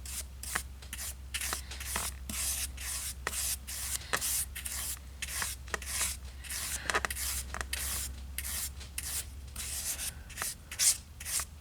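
A paintbrush stroking a dark brown wash onto a painted model concrete floor: a run of short, irregular scratchy brush strokes. A steady low hum sits underneath and stops about ten seconds in.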